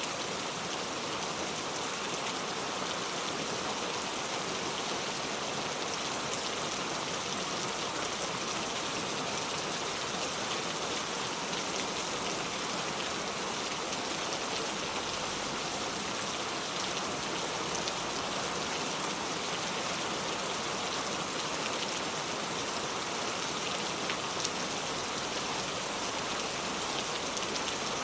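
Steady rain falling, an even hiss of many fine drops on surfaces, with no change in strength.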